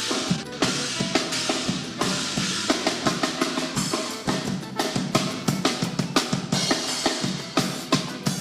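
Live band playing an instrumental passage, the drum kit keeping a steady beat of quick, regular strikes.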